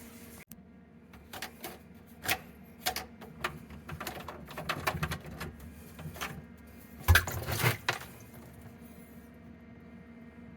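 Plastic sink drain trap being unscrewed and taken apart by hand: irregular clicks, knocks and rattles of plastic slip nuts and pipe pieces, with a louder thump about seven seconds in.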